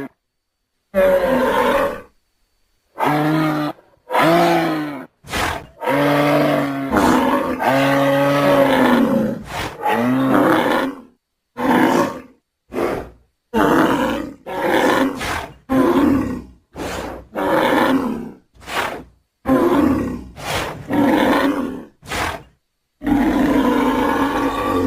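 A string of about twenty separate animal calls and roars from deer, elk, moose and bull recordings, following one another with short silences between. Some calls last a second or two, some are brief blips, and several arch up and down in pitch.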